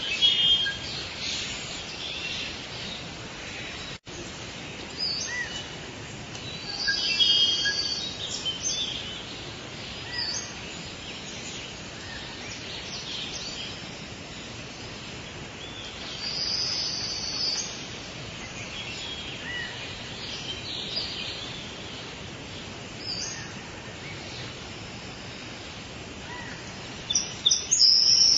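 Forest bird ambience: birds calling and chirping at intervals over a steady background hiss, with a louder, busier spell of song near the end. The sound cuts out for an instant about four seconds in.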